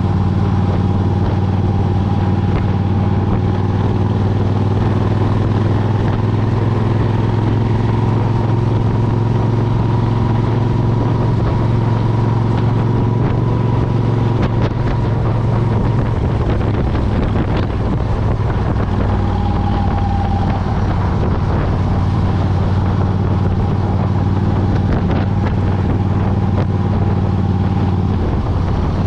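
2003 Suzuki Intruder 1400's V-twin engine through a Vance & Hines Classic exhaust, running steadily under way. Its even note breaks up briefly a little over halfway through.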